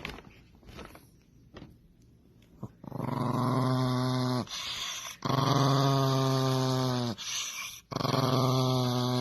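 A dog growling: three long, low, drawn-out growls starting about three seconds in, each dropping in pitch at its end.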